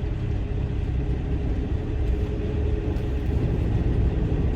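Semi truck's diesel engine running steadily, a low even rumble.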